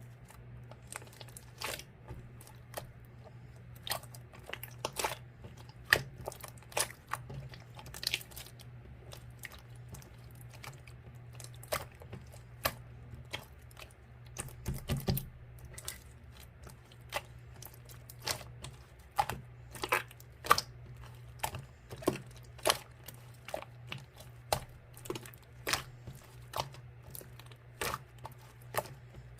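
Slime being pressed and poked by hand, giving irregular sharp clicks and pops, over a steady low hum.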